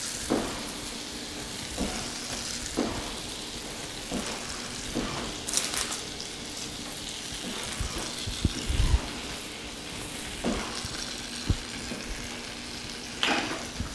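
Breaded chicken schnitzels sizzling steadily in hot melted butter in a saute pan, with short taps and a low thump as the pieces are set down one after another. The steady sizzle is the sign that the butter is at the right frying temperature.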